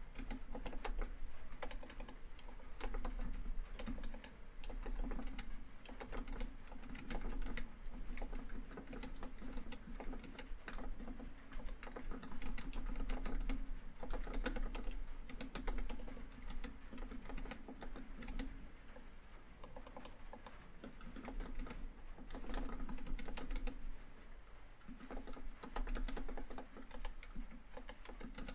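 Typing on a laptop keyboard: quick runs of key clicks with short pauses between them.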